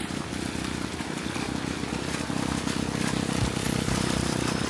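Steady low mechanical rumble of a motor or engine running, with no speech.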